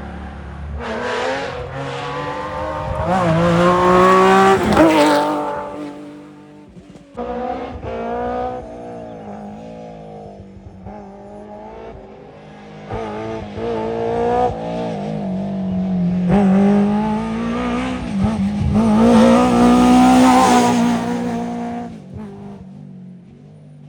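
Historic rally cars at full throttle on a special stage. The engines rise in pitch and drop back at the gear changes, and the passes are loudest about four seconds in and again near twenty seconds.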